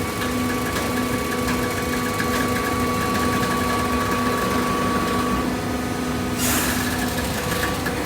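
Compact automatic hydraulic cardboard baler running: a steady mechanical hum from its motor and pump, with a short hiss about six and a half seconds in.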